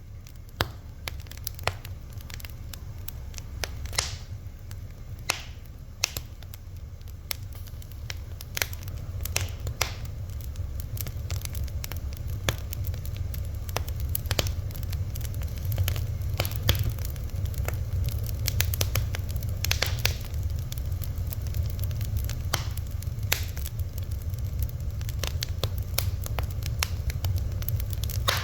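Fire crackling, with irregular sharp pops and snaps, several a second and some louder than others, over a steady low rumble.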